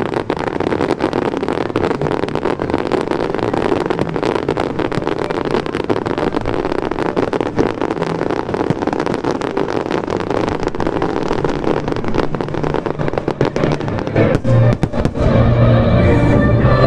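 Fireworks crackling densely, a rapid continuous stream of small pops and cracks, over show music, with a few louder cracks near the end as the music's bass comes back up.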